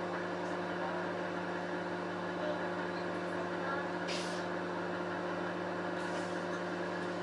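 Electric suburban train running slowly into a station: a steady hum with several fixed tones, heard from inside the carriage. A short hiss of air comes about four seconds in, and a fainter one near the end.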